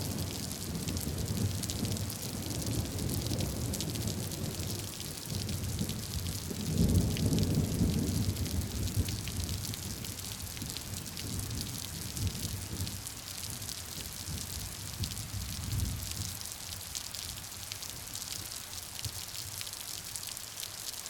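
Steady rain falling, with many sharp close drop hits over an even hiss. A low rumble of thunder swells about a third of the way in and then slowly dies away.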